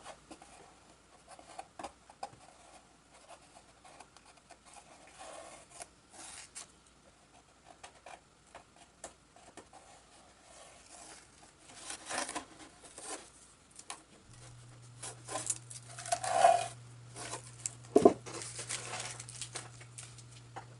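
Tape being peeled off a model airplane fuselage: scattered light rips, ticks and handling noises, busier in the second half, with one sharp snap near the end. A low steady hum comes in about two-thirds of the way through.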